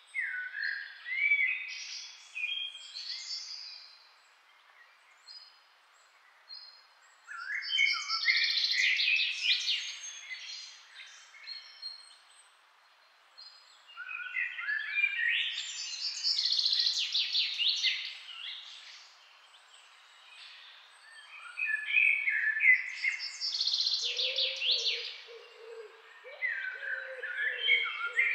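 A songbird singing long phrases of rapid, varied notes, one phrase roughly every six to seven seconds with quiet gaps between. Near the end a lower, repeated call joins in.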